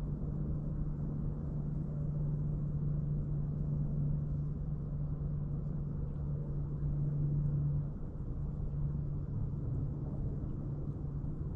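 Steady low motor hum, holding one pitch over a rumbling background, easing slightly about eight seconds in.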